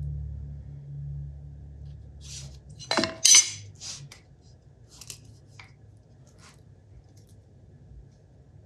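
Small hard metal parts clinking and rattling as they are handled on a workbench, a scatter of clinks with the loudest pair about three seconds in, as low background music fades out at the start.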